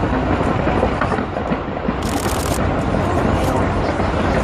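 Fireworks going off in a continuous barrage of booms and crackles, with a brighter crackling burst about two seconds in.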